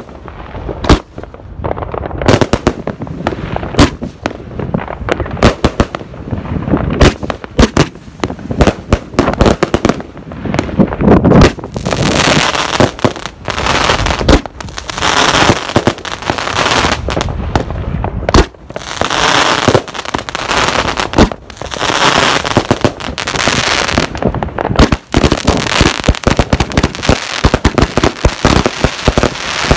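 Consumer display-box firework cake (Poseidon) firing a rapid series of shots, with sharp bangs as the stars burst overhead. From about twelve seconds in, the shots merge into a dense, almost continuous crackle.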